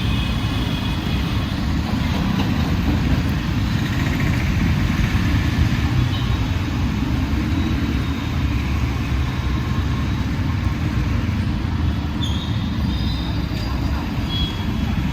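Busy city street traffic: vehicles running and passing with a steady deep rumble, and a few short high-pitched tones about twelve seconds in.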